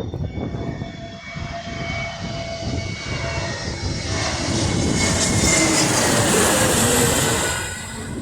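Jet airliner passing low overhead, its engine whine and tones sliding down in pitch as it goes by. It grows louder, peaks past the middle, then eases off near the end.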